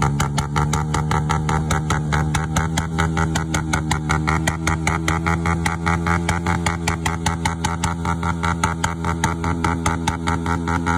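Motorcycle engine idling, a steady low running note pulsing evenly about seven times a second.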